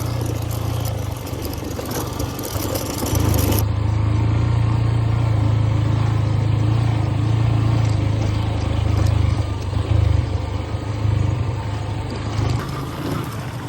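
Motorcycle engine running steadily under way on a rough dirt track, with a deep, even drone and small surges in the revs.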